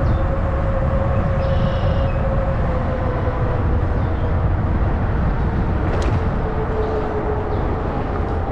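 Fat-tire e-bike being ridden, with wind rumbling on the microphone and a steady whine from the drive that drops slowly in pitch as the bike slows. A single sharp click comes about six seconds in.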